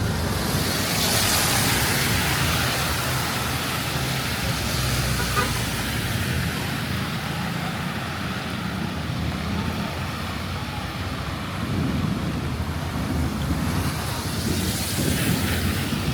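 Wet-road street traffic in the rain: a vehicle engine running with a low steady hum under a constant hiss of rain. Tyres on wet pavement swish past twice, once about a second in and again near the end.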